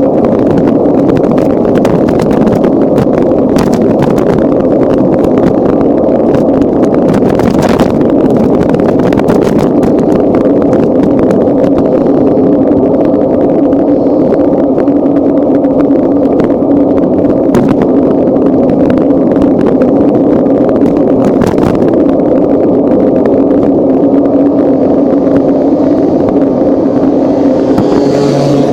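Loud, steady rushing and rumbling with frequent rattling clicks, the wind and road vibration picked up by a camera on a moving bicycle.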